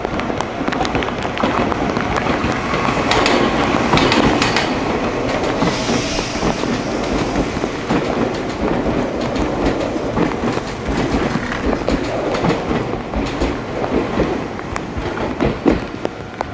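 Meitetsu electric train running along the platform, its wheels clattering over the rail joints in a rapid run of clicks. The sound swells to its loudest about four seconds in.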